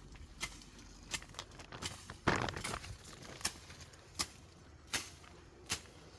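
A series of short, sharp knocks, roughly one every three quarters of a second, with one longer, louder crunching rustle a little past two seconds in.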